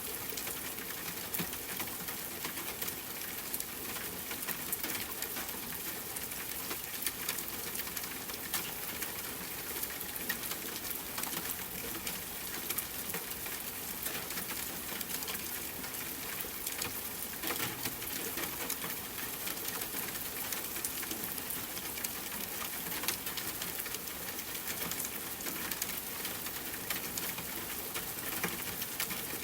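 Steady rain hiss with a campfire crackling over it: frequent small sharp pops and snaps scattered throughout.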